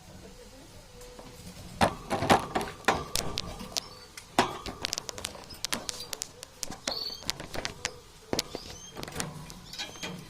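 Pet birds moving about and calling: many irregular sharp clicks and taps, with a few brief high chirps.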